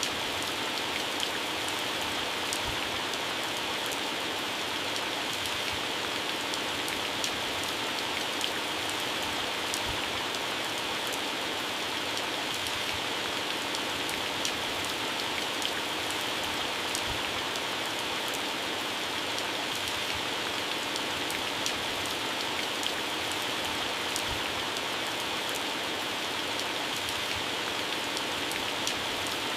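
Heavy rain falling steadily on garden plants and grass, a dense hiss broken by many sharp drop ticks on leaves.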